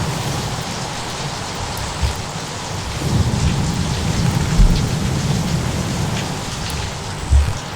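Steady rain with rolling thunder: a low rumble swells about three seconds in and fades, and there are a few brief low thuds.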